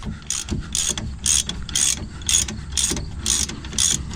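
Hand ratchet wrench clicking in quick back-and-forth strokes, about two a second, as it backs out a loosened brake caliper bolt.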